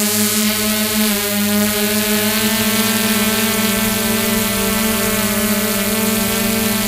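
Drone's electric motors and propellers whining steadily in flight, their pitch wavering slightly with a small dip about a second in.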